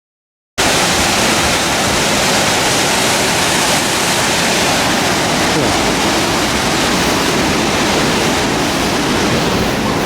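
Loud, steady rush of fast-flowing floodwater in a swollen river, cutting in suddenly about half a second in.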